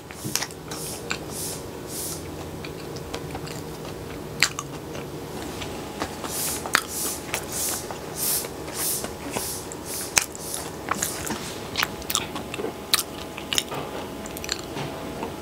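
Close-miked chewing of soft cheese bread, wet mouth sounds about twice a second. Underneath is a steady droning hum from insecticide fogging (Baygon spraying), loud enough to be called super noisy.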